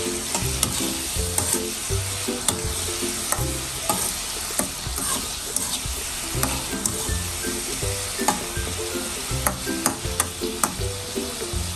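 Diced pork sizzling in hot oil in a metal wok while a metal spatula stirs it, scraping and clicking irregularly against the pan.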